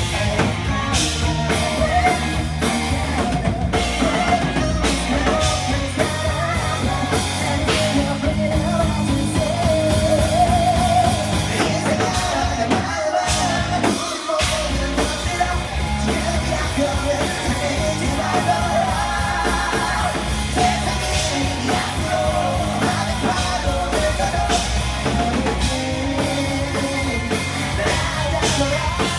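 Live rock band playing loud, with singing over drums and guitars; the bass and drums drop out briefly about halfway through, then come back in.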